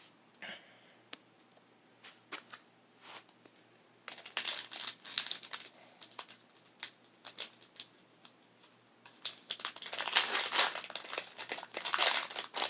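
Crinkling plastic Pokémon booster pack wrappers being handled, in two spells of a couple of seconds each, with a few light taps and clicks before them.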